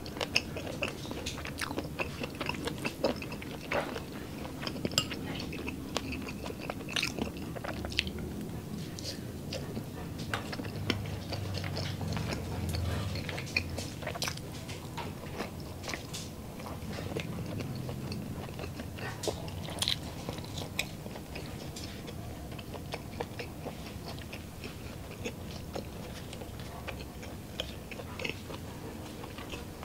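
Close-miked mouth sounds of chewing and biting grilled skewered meat and rice, with frequent sharp wet clicks and smacks at irregular intervals.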